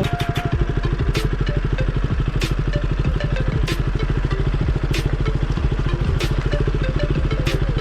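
KTM Duke 200's single-cylinder engine running steadily at low revs while the motorcycle is ridden over a rough, off-road track, with sharp clicks about every second and a quarter.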